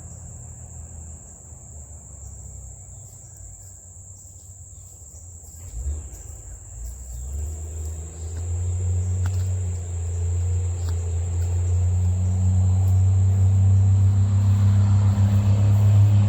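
Crickets chirring in a steady high buzz, while a vehicle engine's low rumble grows steadily louder from about six seconds in.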